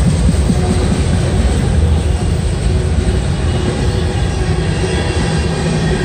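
Freight train cars, autoracks then tank cars, rolling past close by: a steady, loud rumble of steel wheels on the rails.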